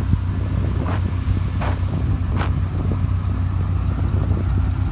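Heavy road-paving machinery engine running steadily with a loud, low drone, with three short higher-pitched sounds in the first half.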